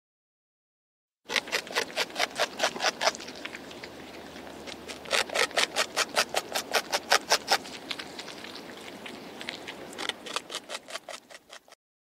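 Nutria (coypu) chewing food, a fast run of crunching bites at about five a second, in three bouts that fade out at the end.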